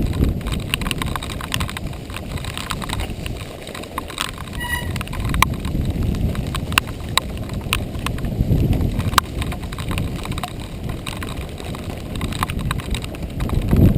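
Giant XTC 3 composite mountain bike riding over a rough dirt trail: a steady low rumble of tyres and air on the microphone, with scattered sharp clicks and rattles from the bike over the bumps. A short squeak comes about five seconds in.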